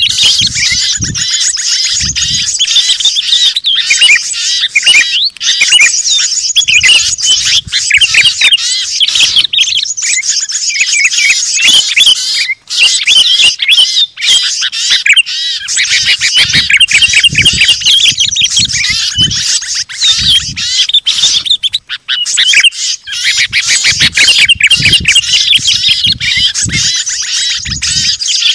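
Dense chorus of many small songbirds chirping, twittering and chattering at once, with no let-up: an Indonesian bird-lure ('suara pikat') recording of noisy small birds, made to draw wild birds down.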